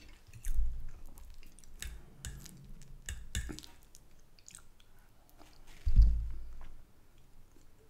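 Close-up chewing of soft mashed potato with gravy, with wet mouth clicks and smacks. A low thump comes about half a second in and a louder one about six seconds in.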